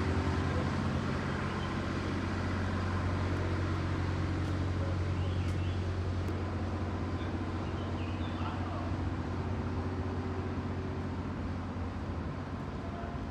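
A steady low engine-like hum that holds unchanged, with a few faint high chirps over it.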